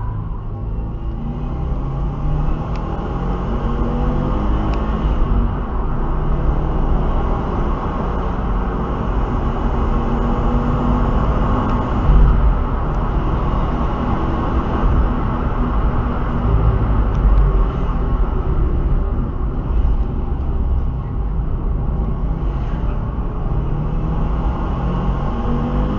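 Turbocharged car engine running under load, its pitch rising and falling as the revs change, over a heavy low rumble and steady rushing noise.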